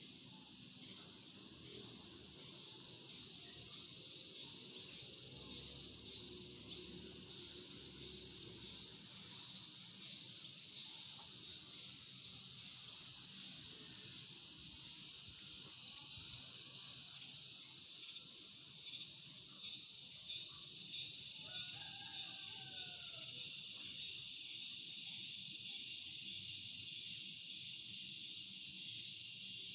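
Steady, dense high-pitched insect chorus, growing louder through the second half.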